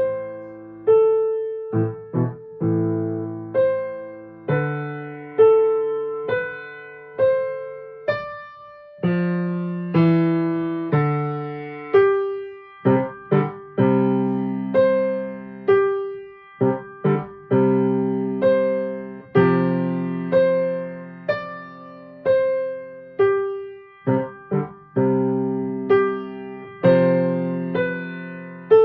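Solo piano playing a piece of struck chords and melody notes, each attack ringing and fading before the next, at about one or two notes a second.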